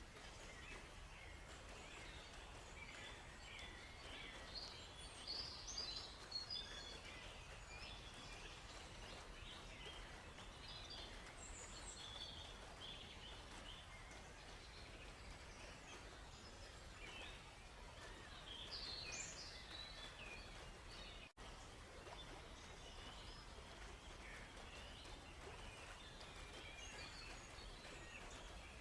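Small songbirds chirping and twittering in scattered short bursts over a faint, steady hiss of a flowing river. The whole sound cuts out for an instant about two-thirds of the way through.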